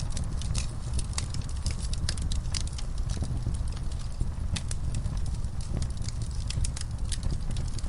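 Wood fire crackling in a fireplace: frequent sharp, irregular pops and snaps over a steady low rumble of the burning logs.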